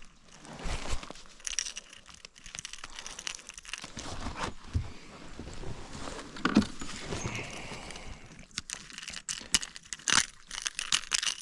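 Irregular rustling, clicks and knocks of hands, pliers and gear being handled in a kayak while a small bass is unhooked with pliers.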